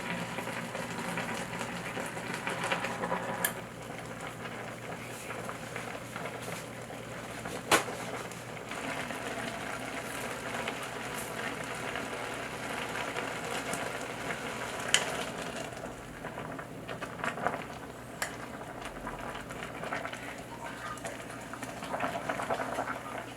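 Food cooking on the stove: a steady hiss of boiling or simmering, broken by a few sharp clicks of a utensil.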